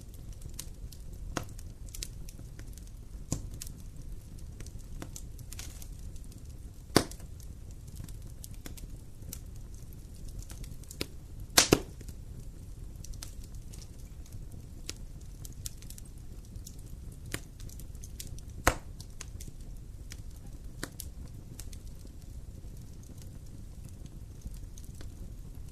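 Wood campfire burning: scattered crackles and sharp pops over a low steady rumble, with a loud pop about seven seconds in, a close double pop near the middle, and another near nineteen seconds.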